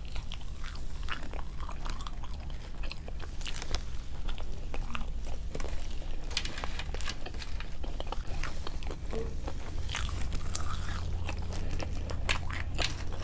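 Close-miked mouth sounds of someone chewing and biting fast food, a dense run of short clicks and smacks, over a steady low hum.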